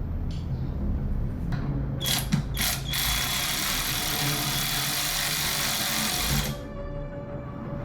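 Ratchet wrench being cranked. A few separate clicks come first, then a fast continuous ratcheting rattle for about three and a half seconds that stops abruptly.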